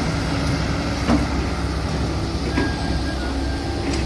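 Heavy diesel engine running at a steady pitch, with a few light knocks about a second in and near the end.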